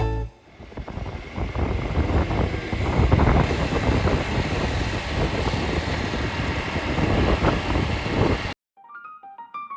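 A motor vehicle running, a steady rough noise with a strong low end, which cuts off abruptly near the end. Soft piano music then begins.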